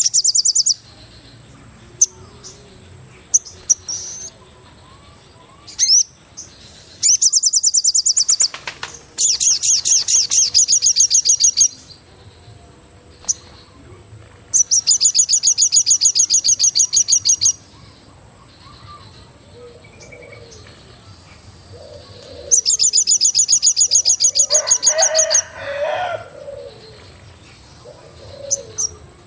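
Forest birdsong: a rapid high trill comes in bursts of about two to three seconds, five times, with quieter gaps between. Softer, lower calls join in the second half, and a faint steady high tone runs underneath.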